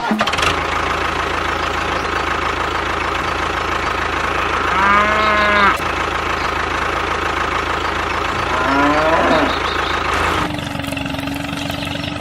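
A small engine running steadily, with a cow mooing twice over it: a long call about five seconds in and a shorter rising one near nine seconds. Near the end the engine noise changes to a smoother hum with a steady tone.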